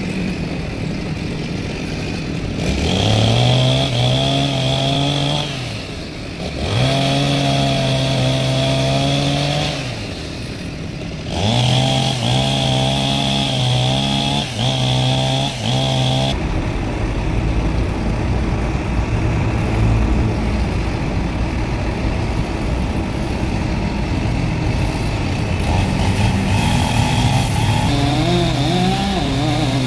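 Chainsaw engine revved high in three bursts of several seconds each, with short dips between them. It then runs at a lower, rougher note before rising again near the end.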